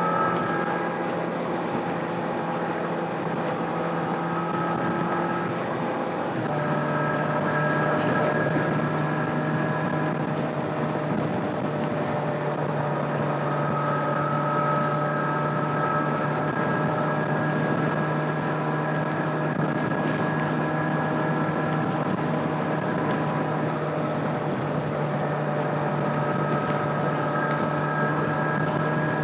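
Stock exhaust of a 2025 Kawasaki Z900's inline-four engine, heard onboard at a steady highway cruise, with wind rushing over the microphone. The engine note holds steady, stepping up slightly in pitch about six seconds in.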